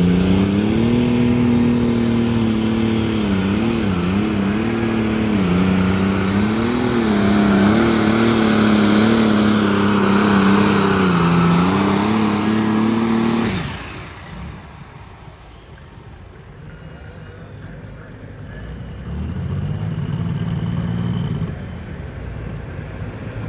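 Pulling tractor's engine running hard under load during a pull, its pitch wavering up and down, then cutting off abruptly about thirteen seconds in. After that it is quieter, with an engine briefly running up again near the end.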